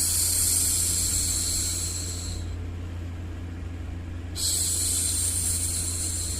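A woman's voice hushing 'shhh' twice, each hush lasting about two and a half seconds, over a steady low background noise.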